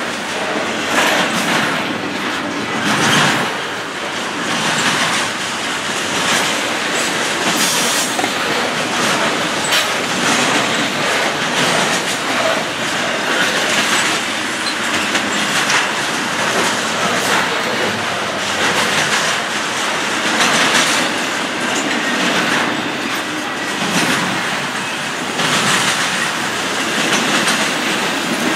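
Double-stack container well cars of a long freight train rolling past: a steady loud rumble of steel wheels on rail, with repeated clacks as the wheel sets go by.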